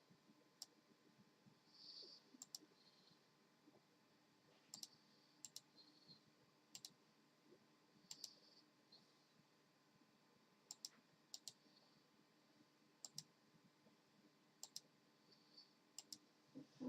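Faint, irregular sharp clicks, some in quick pairs, every second or so, with soft brief rustles between them.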